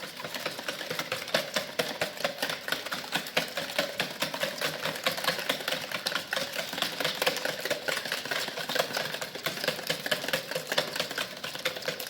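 Eggs, sugar and oil being beaten together in a bowl, with the beater clicking rapidly and steadily against the bowl.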